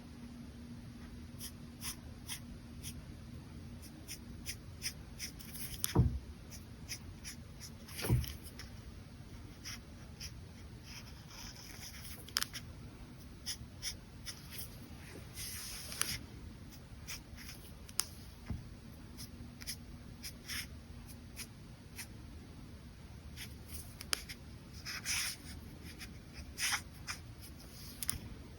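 Brush pen strokes on paper: short, scratchy strokes and light ticks come at irregular intervals, with two louder thumps about six and eight seconds in.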